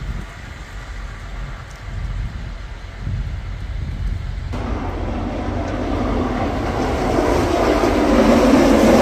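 Vehicle noise: a steady low rumble, then a louder rushing road noise that comes in suddenly about halfway and keeps swelling.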